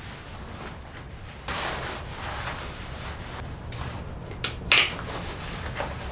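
Rubbing and scraping of objects being handled, with a couple of longer scraping swells early on and two short sharp scrapes about four and a half seconds in, over a low steady rumble.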